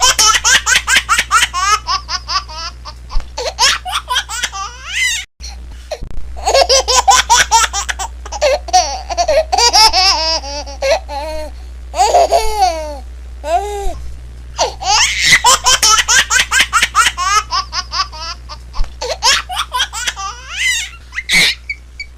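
Long fits of high-pitched laughter in fast repeated bursts, over a low steady hum, with a sudden brief cut about five seconds in.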